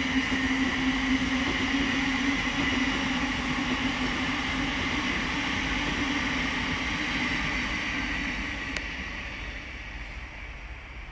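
Thameslink Class 700 electric multiple unit passing on the line: a steady rush of wheels on rail with a held hum and whine, dying away over the last few seconds.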